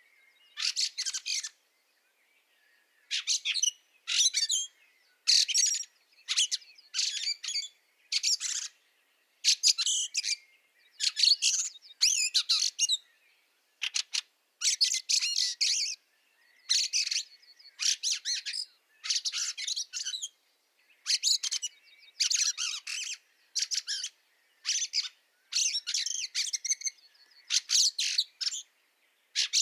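Fieldfare calling in a long run of short bursts, each about half a second to a second long, with brief quiet gaps between them.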